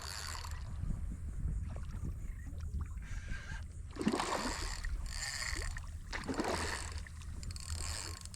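A hooked fish splashing at the water's surface beside a kayak, in two bouts about four and six seconds in, over a steady low rumble of wind on the microphone.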